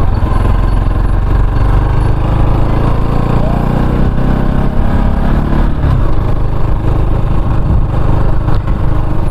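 Motorcycle engine running steadily while riding, with a constant noisy rush of wind and road noise over it.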